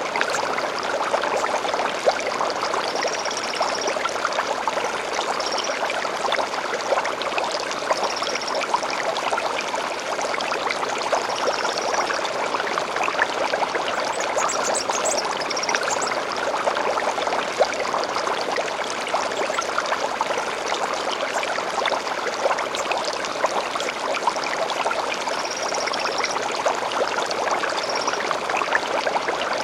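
A stream flows and splashes steadily. Over it a bird gives short, high chirps every few seconds, with a quick run of rising notes about halfway through.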